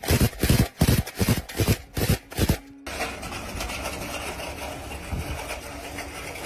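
Old dump truck engine starting: uneven, loud firing bursts for about three seconds, then it settles into steady running.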